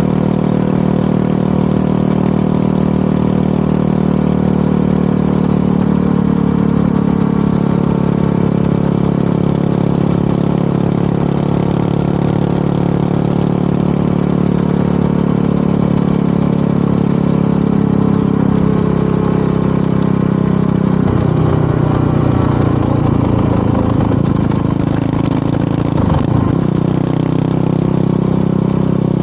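Motorcycle engine and exhaust running steadily while riding. The engine note wavers and changes pitch for several seconds about two-thirds of the way through, then steadies again.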